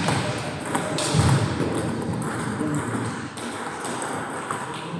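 Table tennis balls clicking off bats and table, several sharp ticks at irregular intervals, over a murmur of voices.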